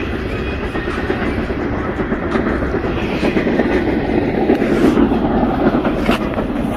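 Steady rumble of a double-decker passenger train beside the platform, with a few faint clicks and knocks.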